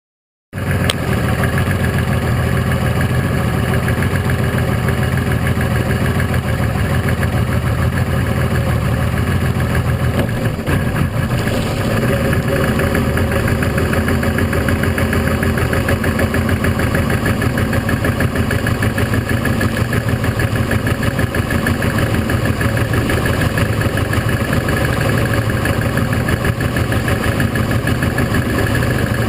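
Boat engine running steadily, loud, over a haze of wind and water noise, starting abruptly just after the beginning; its low tone shifts slightly about ten seconds in.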